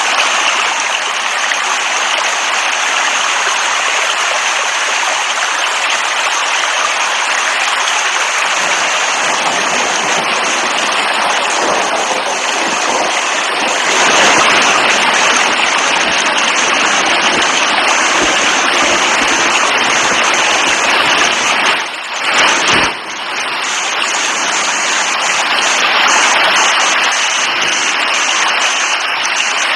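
Steady, loud downpour of rain, a dense even hiss with no separate drops standing out. It briefly dips twice about two-thirds of the way through.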